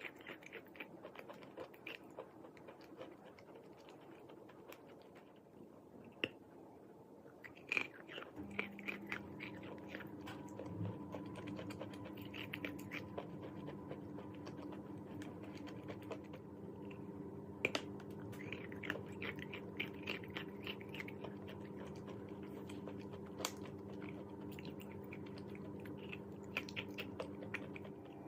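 Chalk being bitten and chewed close to the microphone: scattered sharp crunches and clicks. A steady hum with several fixed pitches comes on about eight seconds in and continues under the chewing.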